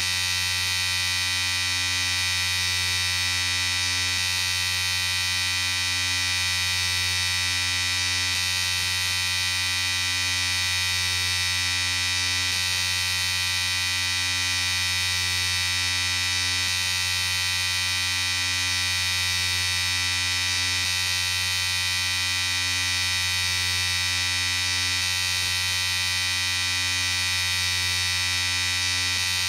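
Electric shaver running continuously with a steady buzz that does not change.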